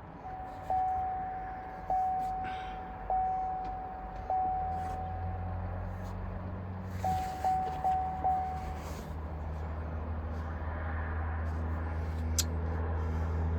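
Vehicle dashboard warning chime after the key is switched on: a single-pitch chime repeating about once a second four times, then four quicker chimes a few seconds later. A low steady hum comes in partway through.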